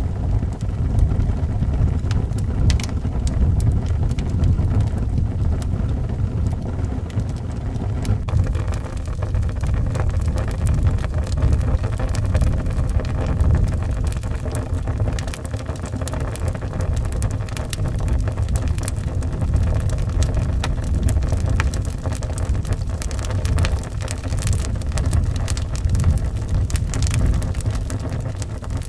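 Wood fire crackling with frequent short pops over a steady deep rumble of wind; the crackles become denser about eight seconds in.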